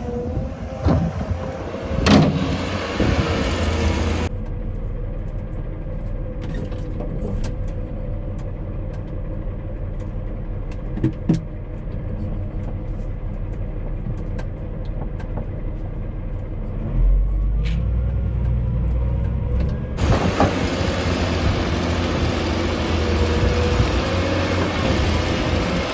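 A tractor's engine running steadily under work, with scattered knocks and clanks. The sound turns duller about four seconds in and brighter again about twenty seconds in.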